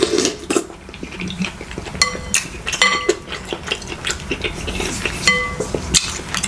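Eating utensils clinking and scraping against a dish, with several short ringing clinks about two seconds in and again near the end, among smaller clicks.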